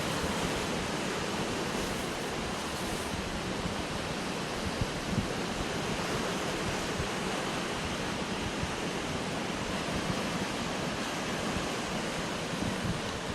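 Sea surf washing against coastal rocks: a steady, continuous rush of water with a couple of brief louder surges about five seconds in, and some wind rumble on the microphone.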